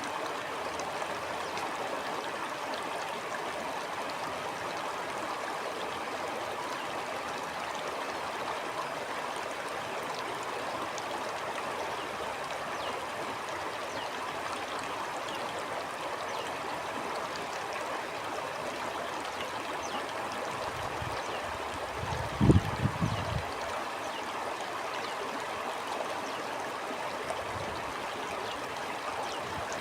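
Stream flowing steadily over rocks with a constant rushing and trickling. About three-quarters of the way through, a brief low rumbling thump stands out above the water.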